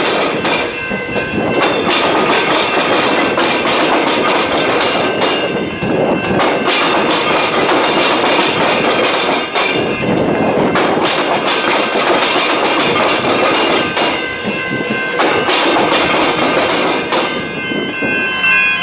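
Electric suburban train passing through a rail–tram level crossing, its wheels clattering over the rail joints and the diamond where the tram tracks cross.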